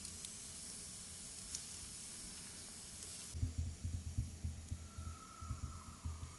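Insects chirring in a steady thin trill, with a run of irregular low thuds in the second half.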